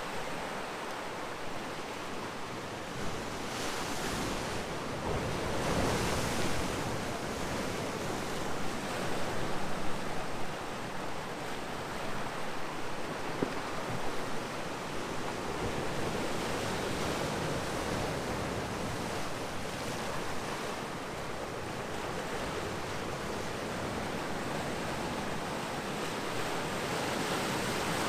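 Ocean surf breaking and washing against rocks below, a steady rush with louder swells of breaking waves a few seconds in and again around ten seconds.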